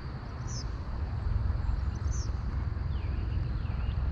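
Strong wind buffeting the microphone as an uneven low rumble, with a bird giving a few short high chirps and a faint steady high insect trill underneath.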